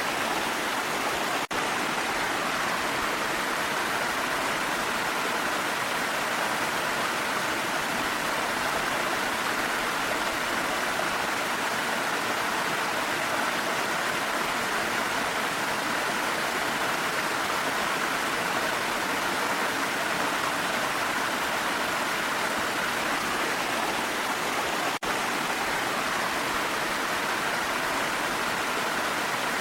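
Steady rush of a waterfall, an even continuous roar of falling water. The level dips for an instant twice, about a second and a half in and near the end.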